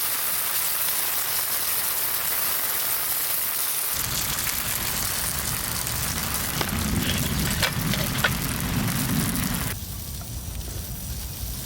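Heavy rain falling steadily as an even hiss. A deeper rumble joins about four seconds in, and near the end the sound drops back to a thinner hiss.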